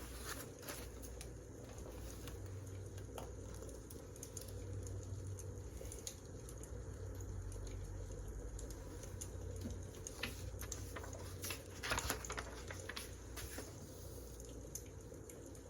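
Wood fire crackling, with scattered sharp pops and snaps over a steady low rumble and a cluster of louder crackles about ten to twelve seconds in.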